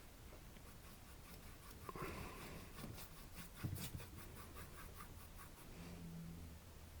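Paintbrush scrubbing and dabbing acrylic paint onto a canvas: faint, quick brush strokes, busiest in the middle.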